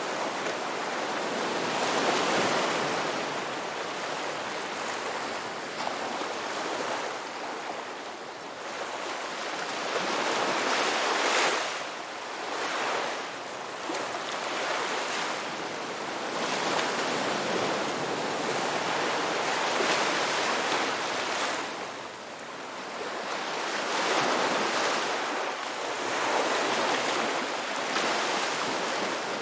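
Ocean waves breaking and washing onto a rocky beach, a continuous rush of surf that swells and ebbs every few seconds, with brief hissing surges as each wave breaks.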